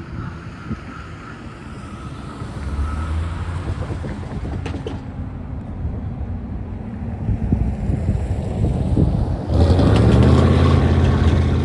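Diesel engine of an EMD GP40M-2 locomotive running at low speed, a low steady hum that builds gradually and then grows suddenly louder about nine and a half seconds in.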